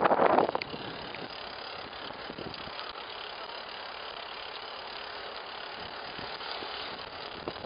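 Steady rush of wind and tyre noise while riding a bicycle, with a few light clicks from the bike. There is a brief louder burst at the very start.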